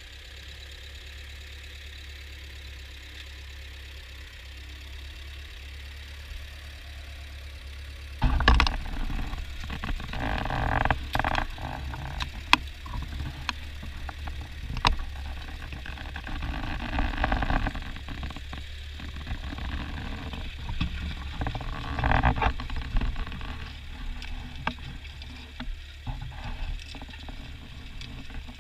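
Ford farm tractor engine running with a low, steady hum; about eight seconds in the sound jumps suddenly louder and rougher, with clattering and sharp knocks that continue to the end.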